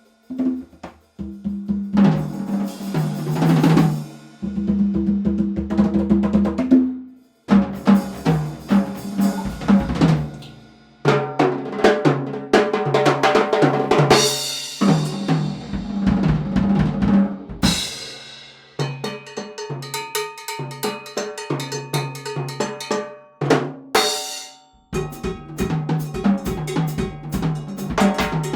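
Drum kit played in a busy groove and fills: snare, bass drum and rimshots, with cymbal crashes a few times around the middle. Low sustained notes ring underneath.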